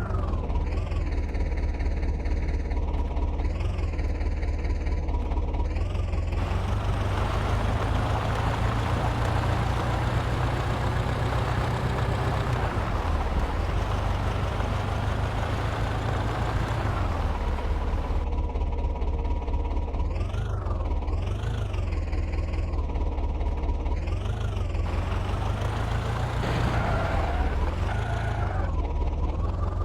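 Swaraj tractor's diesel engine running with a steady low rumble. About seven seconds in a louder rushing noise builds over it and eases off again around seventeen seconds, with a warbling higher tone heard before and after.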